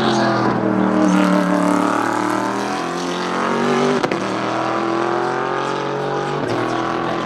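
Group C sports-prototype race car engines running at racing speed, the engine note sagging and then climbing in pitch as the cars pass and change speed. A sharp click about four seconds in.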